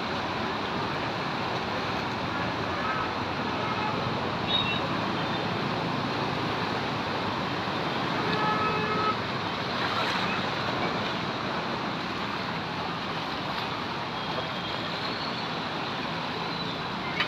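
Rain falling steadily, an even hiss, mixed with traffic noise, with a few faint short tones here and there.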